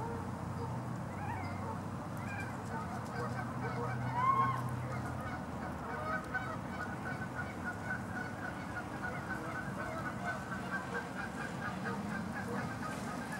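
Canada geese calling: a few honks, the loudest about four seconds in, followed by a run of short, evenly repeated notes.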